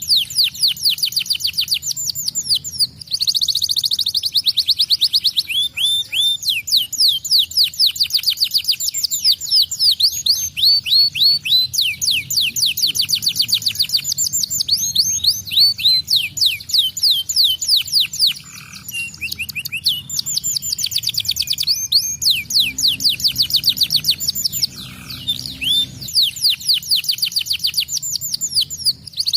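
Domestic canary singing, with long fast trills of repeated high falling notes and brief breaks between phrases.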